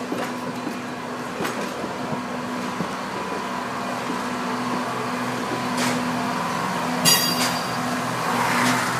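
Heritage passenger train cars rolling slowly past, a steady hum that grows slowly louder, with a few faint clicks and a brief high squeal about seven seconds in.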